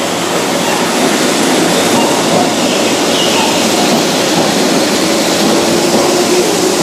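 Keihan 600-series electric train pulling away from the platform: wheels rolling on the rails and motors running as it gathers speed past the microphone, with a low motor tone rising slowly in pitch in the second half.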